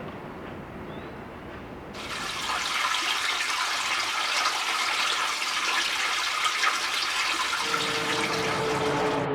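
Spring water pouring and splashing, which cuts in suddenly about two seconds in over a duller low rumble. Near the end a faint steady engine-like hum joins it.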